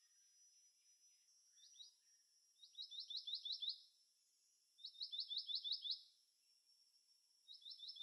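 Black-naped monarch singing: three quick runs of repeated high-pitched "wi-wi-wi" notes, about seven a second, each run lasting about a second, the third starting near the end.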